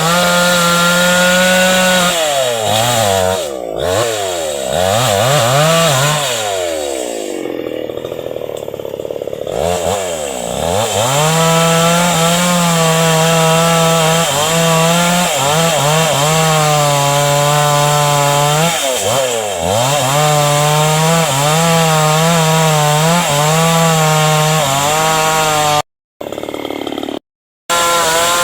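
Two-stroke chainsaw cutting hardwood. For the first ten seconds or so the engine speed dips and climbs repeatedly, then it holds at high speed through the cut with brief dips. The sound cuts out twice briefly near the end.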